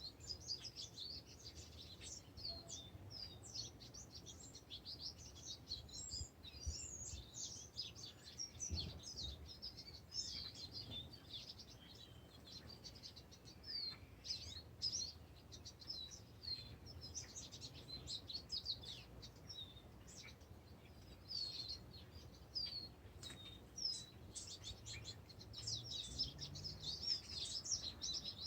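Birds singing and chirping together: a dense, continuous chorus of many short, high chirps and trills overlapping. A faint low rumble sits underneath.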